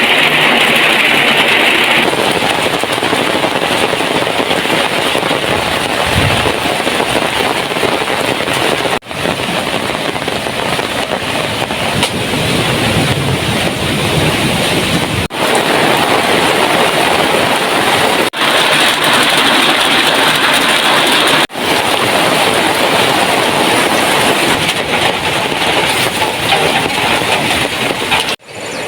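Heavy rain pouring down steadily as a loud, even hiss, broken by five brief dropouts where one clip cuts to the next.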